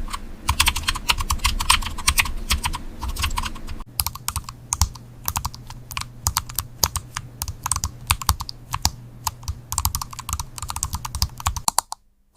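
Typing on a computer keyboard: a fast, continuous run of keystroke clicks. About four seconds in, the clicks change character, as if on another keyboard, and the typing stops shortly before the end.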